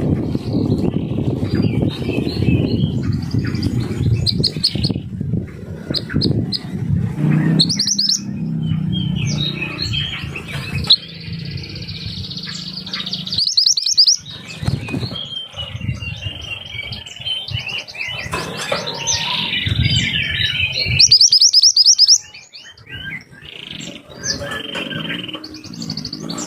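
Mantenan gunung songbird singing in repeated bursts of sharp, fast chirps and rapid trills, the piercing 'tembakan' phrases used as a master song for training other cage birds. A low rumble runs under the song for the first several seconds.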